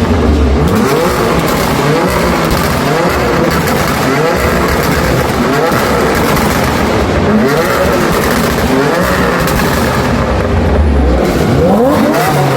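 BMW F82 M4's twin-turbo inline-six running through an aftermarket performance exhaust, revving hard, its pitch climbing again and again in repeated sweeps.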